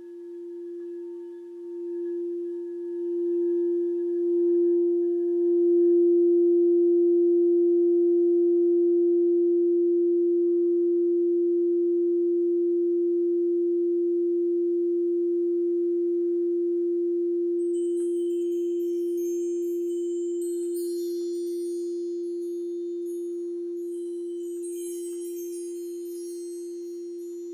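Alchemy crystal singing bowl sounding one pure, sustained tone that swells with a pulsing waver for about six seconds, then slowly fades. About two-thirds of the way in, a scatter of high, tinkling chime notes joins it.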